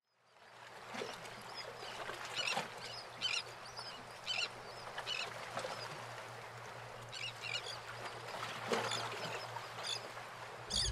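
Outdoor ambience with birds calling: short calls repeat irregularly about a second apart over a steady hiss and a low hum.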